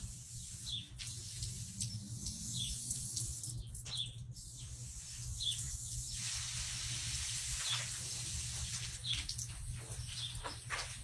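Water spraying with a steady hiss as plants are watered, over a low steady hum. Short high bird chirps come every second or two.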